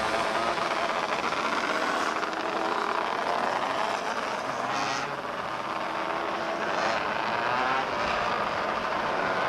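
Several small open-wheel race cars running at high revs together, their engine notes overlapping and rising and falling as they race.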